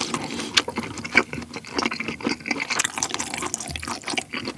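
Close-miked wet chewing of a mouthful of rice and pork kimchi stew, with many small wet smacks and clicks.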